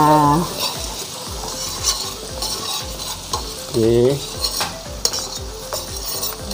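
Sliced shallots, garlic and ginger with whole spices sizzling in hot oil in a stainless steel wok, with a metal ladle stirring and scraping against the pan. This is the tumis stage, frying the aromatics until they turn fragrant.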